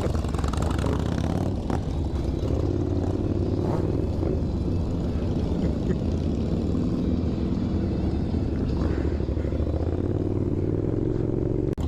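Motorcycle engine running while riding, its pitch rising and easing a few times with the throttle. The sound drops out for an instant near the end.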